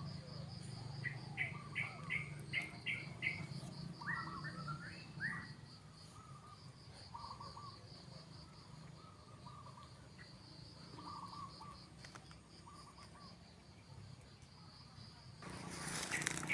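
Small birds calling: a quick run of about six short chirps, then a warbling phrase and scattered repeated notes, over a steady high pulsing insect trill like a cricket's. Near the end a louder rustling noise starts.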